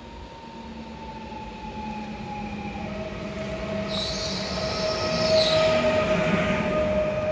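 Electric multiple unit train pulling into a station and slowing: its motor whine steps down in pitch as it brakes, and it grows louder as it comes alongside. A high squeal joins about four seconds in and fades a second and a half later.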